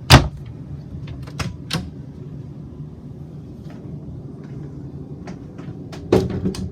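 Cabinet door shutting with a loud bang, then a couple of lighter latch clicks. A second cluster of door knocks comes near the end, over a steady low hum.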